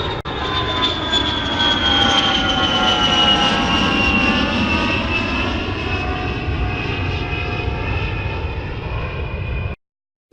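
Airplane engine sound effect: a steady engine noise with a whine that slowly falls in pitch, cutting off abruptly near the end.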